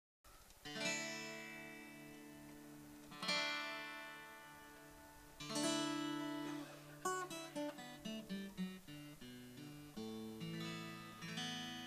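Acoustic guitar playing an opening: three slow strummed chords, each left to ring out, about two and a half seconds apart, then quicker picked notes from about seven seconds in.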